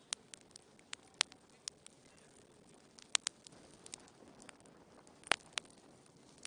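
Wood fire in a fireplace crackling: irregular sharp pops and snaps over a faint steady hiss, the loudest pops about a second in, around three seconds in and about five seconds in.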